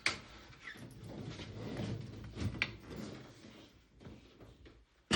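A few sharp clicks and light knocks of things being handled, the first right at the start and another about two and a half seconds in, over a low rustling.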